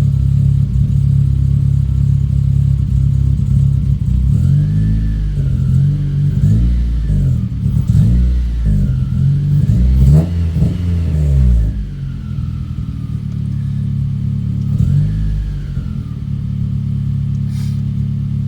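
9th-generation Honda Civic engine running at its first start after a new fuel pump and flex-fuel install. It idles, is revved in a string of rises and falls from about four seconds in to about twelve, settles back to a steady idle, and is revved once more near the end.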